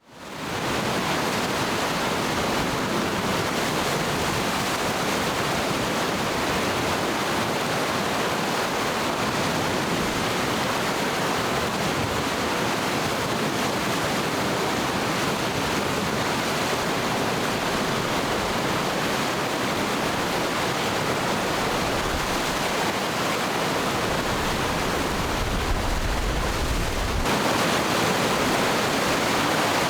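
Rapids on the glacier-fed Matanuska River at high flow: a steady, dense rushing of whitewater, fading in over the first second.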